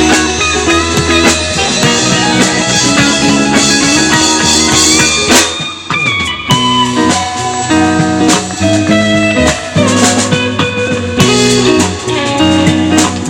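Live rock band playing an instrumental passage: guitar over a drum kit, with no singing.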